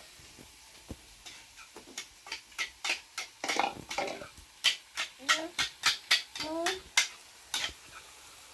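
Dishes, pots and metal utensils clinking and knocking in a quick irregular series of sharp clicks that grows busier and louder toward the end, with a couple of short rising voice-like squeaks in between.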